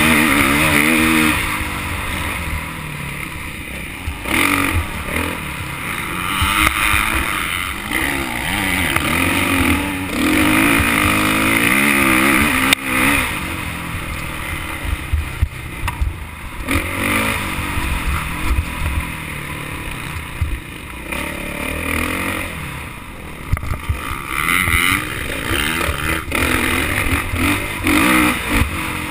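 Motocross bike engine revving up and down again and again as it is ridden around a track, over a heavy low rumble, with one sharp knock about halfway through.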